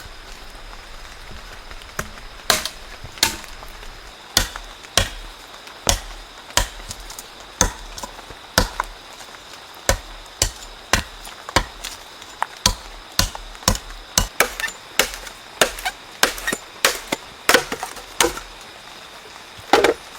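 A blade chopping into wood in repeated sharp strikes. The strikes start about two seconds in and come at an uneven pace of one to two a second.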